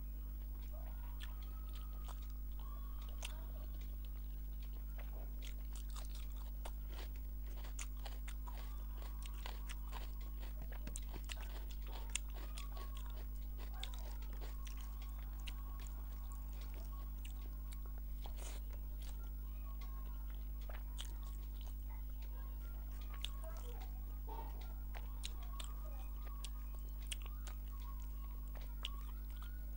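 Close-up eating sounds of a person eating rice and fish curry by hand: chewing with many short wet clicks and smacks scattered throughout, over a steady low electrical hum.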